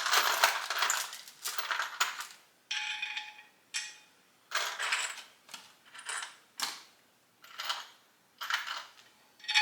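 Small metal masonry screws clinking and rattling as they are handled and sorted by hand, in about a dozen short separate clatters, some with a brief metallic ring.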